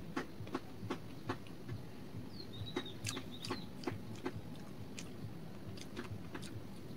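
Close-up chewing of a fried pakora: irregular wet mouth clicks and smacks, two or three a second.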